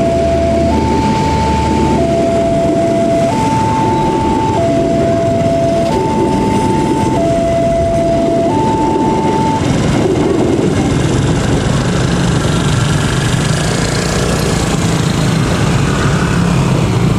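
Passenger train coaches rolling past a level crossing, wheels rumbling on the rails, while the crossing alarm sounds a two-note alternating signal, high then low, each note held about a second. The alarm stops about ten seconds in, and a low steady hum comes up as the train draws away.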